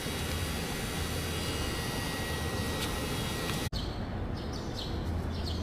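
Motorcycle engine running at a steady low drone. A brief cut about two-thirds of the way through is followed by short high chirps over the same drone.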